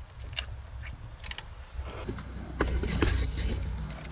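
Scattered clicks and clinks of hand tools and engine parts being handled during spark plug and ignition coil work in a truck's engine bay, over a low rumble that is strongest in the second half.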